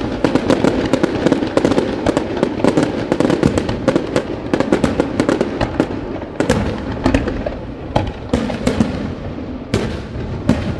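Aerial fireworks display: a dense, rapid crackling and popping of many bursting shells, thinning after about six seconds into scattered sharp bangs.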